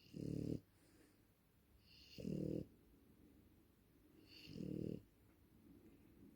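French bulldog snoring: three loud snores about two seconds apart.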